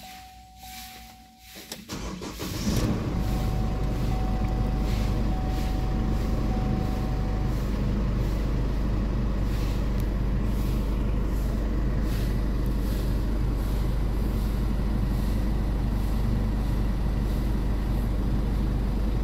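Chevrolet Trailblazer engine cranked and started about two seconds in, then idling steadily. A thin steady tone, like a dashboard warning chime, sounds before the start and for a few seconds after it.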